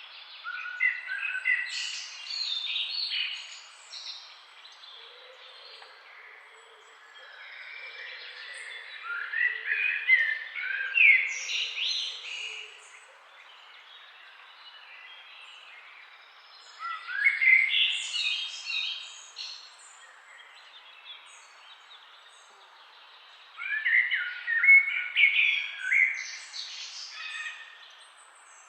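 Birds singing in the trees: four bouts of quick chirps and rising notes, each a few seconds long with pauses of several seconds between them, over a steady background hiss.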